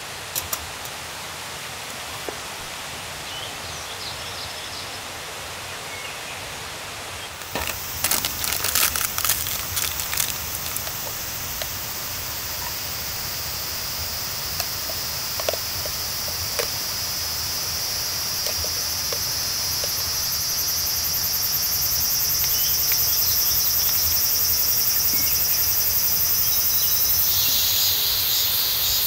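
A steady soft hiss, then about seven seconds in a high, steady chorus of summer insects sets in, with a few seconds of clicking and rustling as it starts, and grows slowly louder.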